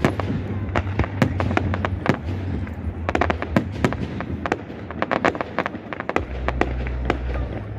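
Aerial fireworks display: rapid crackling and many sharp bangs from bursting shells, over a low rumbling of booms that grows stronger near the end.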